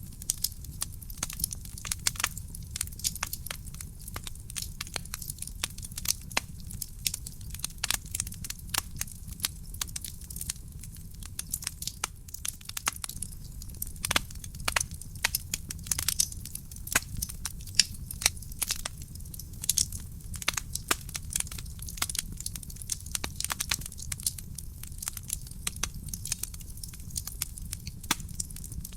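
Wood fire burning in a fireplace, crackling with many sharp, irregular pops and snaps over a steady low rumble.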